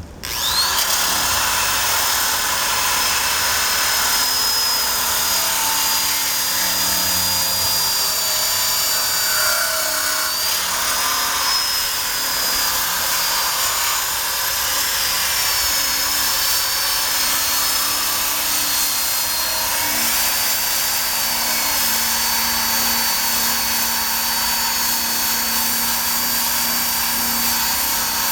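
Electric drill spinning a wire brush against the steel frame to strip rust. It starts abruptly and runs steadily with a high, slightly wavering whine.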